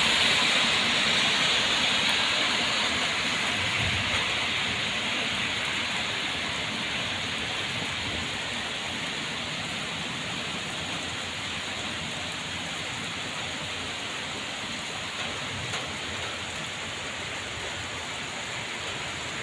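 Steady rain, an even hiss with no other distinct sounds, a little louder at first and easing gradually over the first several seconds before settling.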